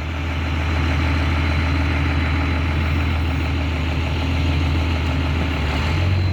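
Heavy truck engine running steadily, a strong low hum with mechanical noise over it.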